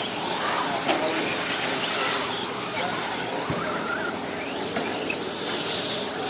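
Several 1/10-scale electric RC short course trucks racing, their electric motors whining up and down in pitch as they speed up and slow down over a steady background noise.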